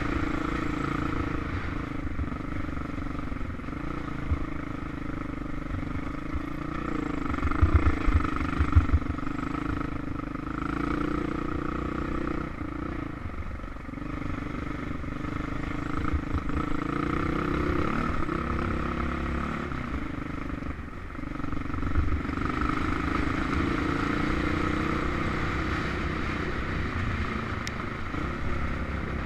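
Husqvarna SM610S supermoto's single-cylinder four-stroke engine running at a steady riding pace over gravel, heard from a helmet camera. A cluster of loud low thumps comes about eight seconds in.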